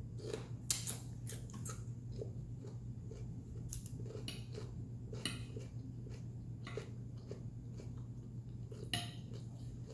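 Mealtime sounds: scattered clicks of a utensil or food against a plate, with quiet chewing, over a steady low hum.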